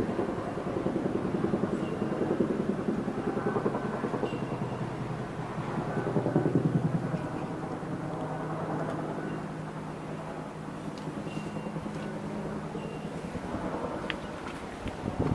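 An engine running steadily at low speed, a low hum with a fast pulse.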